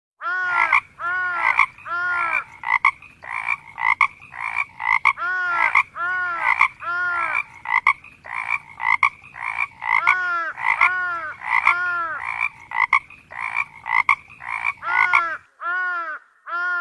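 Frogs calling in a rapid series of short, arched, nasal calls, about two a second, with a faint low buzz underneath. The buzz breaks off briefly twice, and the series ends with two separate calls near the end.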